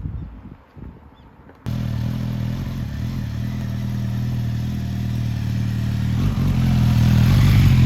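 Suzuki GSX-S1000's inline-four engine running on the move. It cuts in suddenly about a second and a half in and grows steadily louder toward the end. Before it there are a few soft low thumps.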